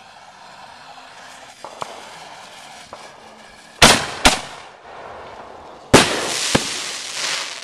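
Fireworks going off: two sharp bangs in quick succession about four seconds in, then a third bang near six seconds followed by a hissing burst that fades over a second or so.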